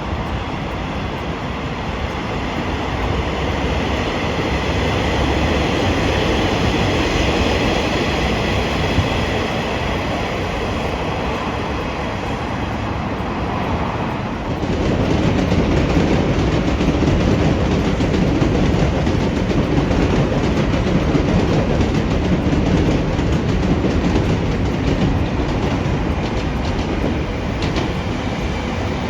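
A train running past on the track, with continuous wheel-on-rail rumble and a faint steady high whine. About halfway through the rumble suddenly grows louder and deeper.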